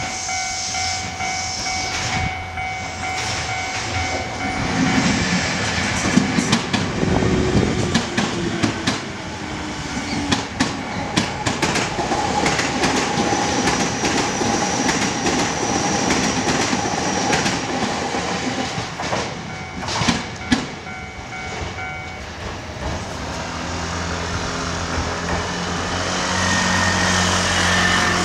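A Japanese level-crossing warning bell rings with steady repeating tones while an electric commuter train runs through the crossing, its wheels clicking over the rail joints. The bell stops about three quarters of the way through. Then a road vehicle's sound builds near the end.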